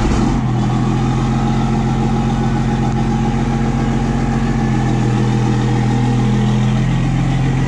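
Duramax V8 turbo-diesel engine running steadily in a pickup truck.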